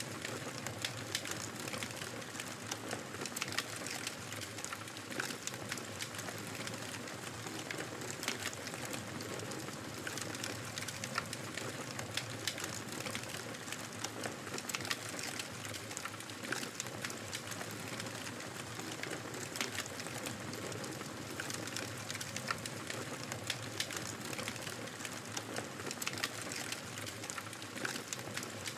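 Wood fire crackling in a fireplace: a steady hiss of burning with frequent small sharp pops and snaps scattered throughout.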